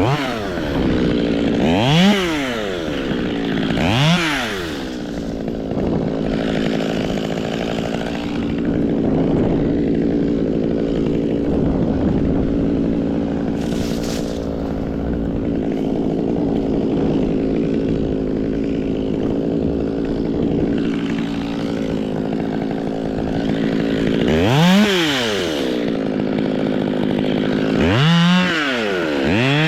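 Two-stroke chainsaw revved in a couple of quick throttle blips, then held at steady high revs through a long cut. Near the end it drops back to a few more throttle blips.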